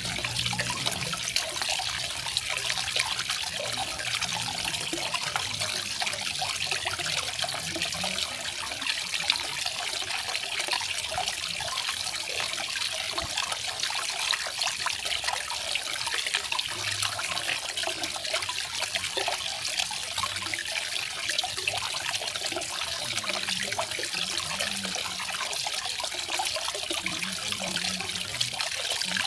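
Garden waterfall: water falling and splashing steadily into a pool, an even, bright trickling splash with no pauses.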